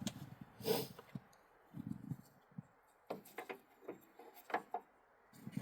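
Handling noises: scattered low knocks and rubbing in the first half, then a run of light clicks and taps about three to four and a half seconds in.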